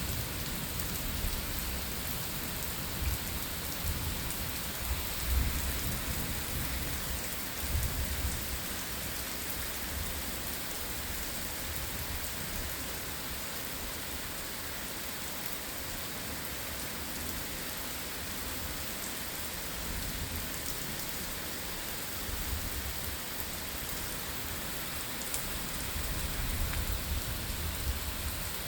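Steady rain falling during a thunderstorm, with low rumbles of thunder through the first several seconds and again near the end.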